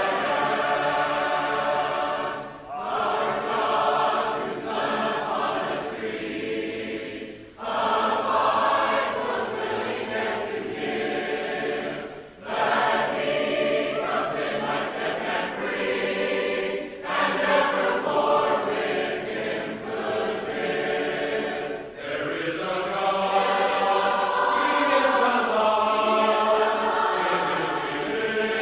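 Many voices singing a hymn together a cappella, in phrases with short breaks about every five seconds.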